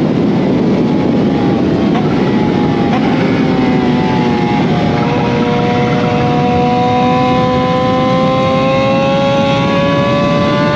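Kawasaki Z H2's supercharged inline-four running through an SC Project CRT exhaust under way, with a few quick changes in pitch early on, then a long, slow, steady climb in revs in one gear that drops off right at the end, over constant rushing noise.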